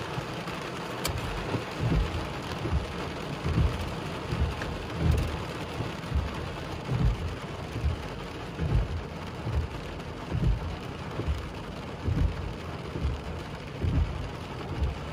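Heavy rain beating on a car's roof and windshield, heard from inside the car: a steady hiss with irregular low thumps about once a second.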